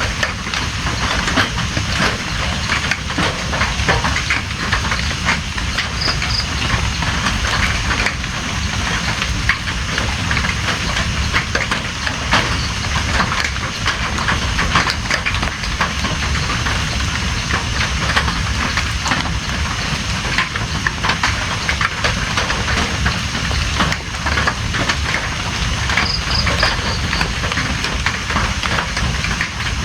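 Steady rain: an even hiss with many close drops ticking against a surface, plus a couple of faint high chirps.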